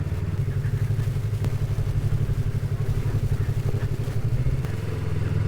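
Motorcycle engine running with a steady, pulsing note, which shifts about four and a half seconds in.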